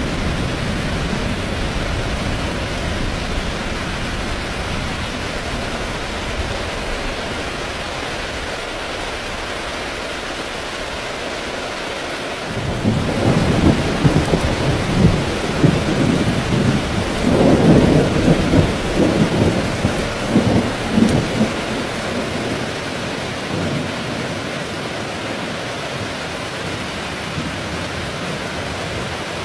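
Heavy rain falling steadily. About twelve seconds in, a roll of thunder rumbles in, loudest a few seconds later, then fades out over several seconds while the rain keeps on.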